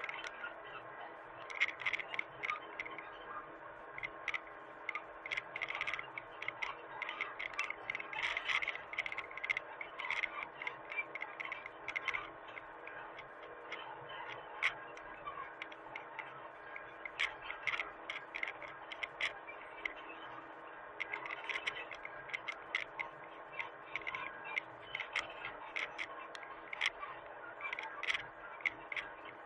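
Hitachi mini excavator running with a steady engine note, overlaid with irregular sharp clicks and clatter.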